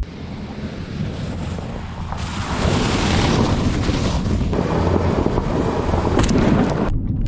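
Loud rushing noise, like wind on the microphone. It swells about two seconds in and cuts off abruptly near the end.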